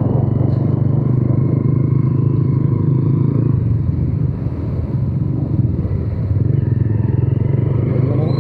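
Motorcycle engine running steadily while riding, heard close up from the bike. The engine note eases a little about halfway through.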